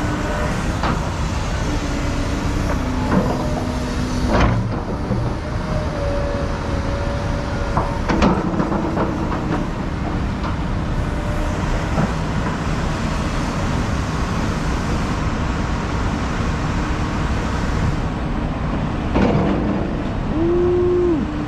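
Heavy diesel equipment and trucks running steadily, with a few sharp clanks, as an excavator loads dump trucks.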